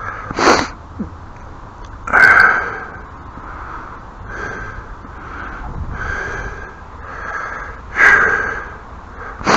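A man breathing loudly through his nose close to the microphone: soft breaths about a second apart, with three louder, sharper intakes about half a second, two seconds and eight seconds in.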